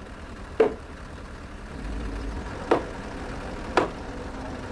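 Hammer blows on timber, three sharp, separate knocks spaced about one to two seconds apart, typical of driving the joints of a wooden house frame together. A low rumble swells briefly in the middle.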